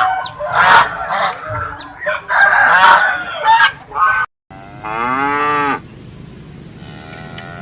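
Poultry calling busily, many short harsh calls overlapping. After a brief cut to silence, a cow moos: one long moo, then a second one starting near the end.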